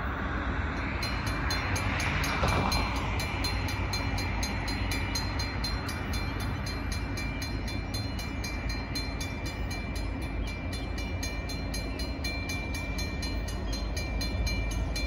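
Norfolk Southern freight train approaching out of sight: a steady low rumble with a thin high tone over it, holding level.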